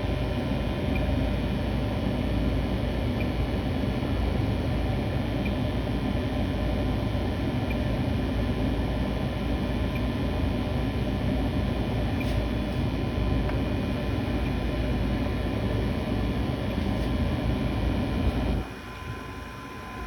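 Steady running noise of a high-efficiency gas furnace in operation, its burners and blower on. The level drops abruptly near the end.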